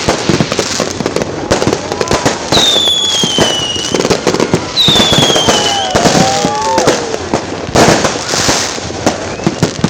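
New Year fireworks going off in a dense, continuous run of bangs and crackling pops, with two long falling whistles about three and five seconds in.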